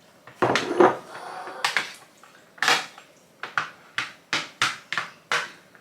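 A spoon clinking and scraping against a dish as pasta with sauce is stirred: a few sharp knocks early, a scrape, then a run of even taps about three a second.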